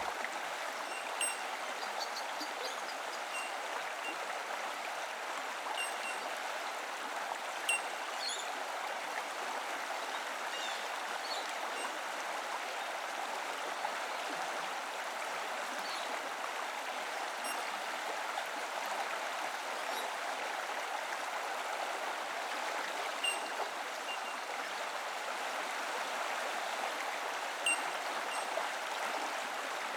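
A rainforest stream flowing steadily, with a few brief, high bird chirps scattered over the water sound.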